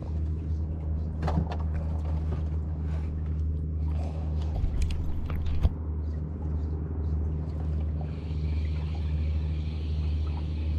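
Boat engine running steadily with a low, even hum, with a few short knocks; from about eight seconds in, a hiss joins it.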